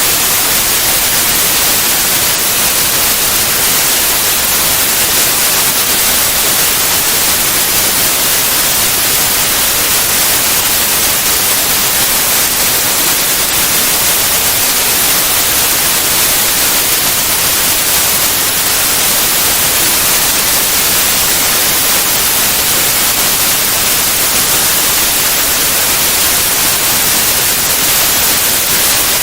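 Steady, loud white noise, an even hiss with no change or events, used as a focus and masking sound.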